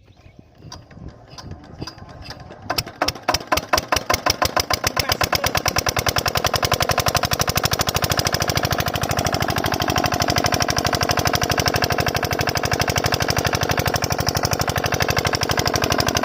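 An 8HP diesel water-pump engine being started: slow uneven strokes pick up speed, it catches about three seconds in with a fast, even knock, and it settles into steady running.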